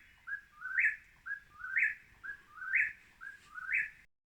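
A bird singing a repeated two-note phrase about once a second: a short lower note, then a louder, higher note. It stops abruptly near the end.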